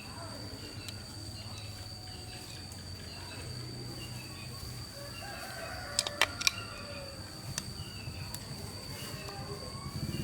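Bird calls, including a longer pitched call, over a steady high-pitched whine, with three sharp clicks close together about six seconds in.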